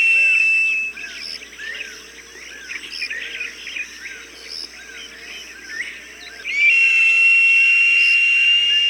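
Hawk's long, thin, high whistled call, one ending about a second in and another starting near two-thirds through, held steady and dropping slightly at its end. Between the two calls, small birds chirp rapidly.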